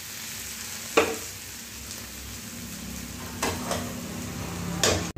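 Broccoli and vegetables sizzling as they fry in a metal kadai, with a metal spatula stirring and clinking against the pan: sharply about a second in, then a few more times near the end.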